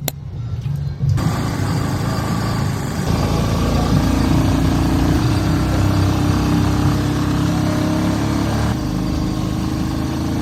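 Motor vehicle engine running steadily, with road and engine noise. The sound changes abruptly a few times.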